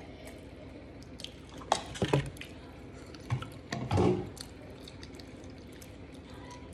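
Wet chewing and lip-smacking of a mouthful of chicken sandwich, heard close up: sticky clicks and smacks in two clusters, about two seconds in and again around three to four seconds in.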